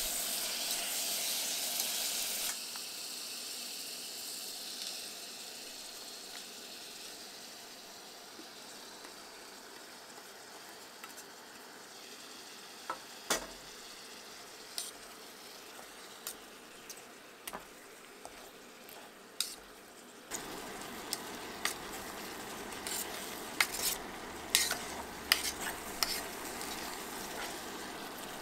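Chicken, onion and mushrooms sizzling in oil in a small camping pot while a utensil stirs them, clicking and scraping against the pot. The sizzle is loudest for the first couple of seconds, dies down, then picks up again about two-thirds through, with a run of sharp knocks near the end.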